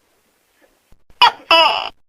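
Tokay gecko giving one two-syllable "to-kek" call about a second in: a short first note, then a longer second note, each falling in pitch.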